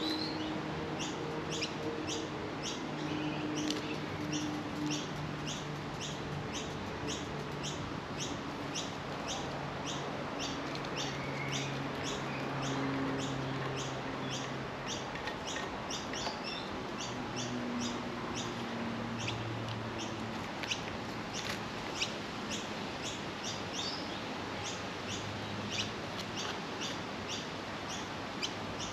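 A small bird chirping over and over in a steady, even rhythm, a little over two short high chirps a second.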